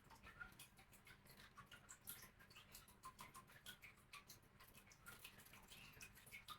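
Pet birds pecking and nibbling at food: faint, irregular small clicks and ticks over near silence.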